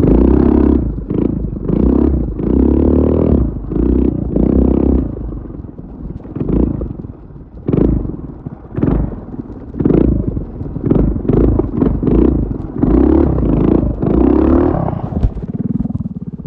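Off-road minibike engine revving in repeated short blips of throttle, about one a second, then dropping to a steady idle near the end.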